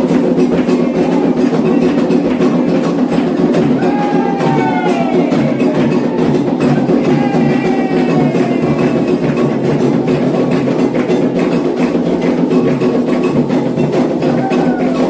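Candomblé percussion for Ogum: atabaque hand drums and a struck bell playing a fast, dense rhythm, with voices singing over it at times. The playing stops right at the end.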